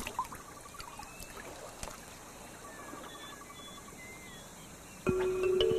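Faint shallow-water ambience: soft trickling with small splashes and clicks, and a few faint short chirps. A held music chord comes in near the end.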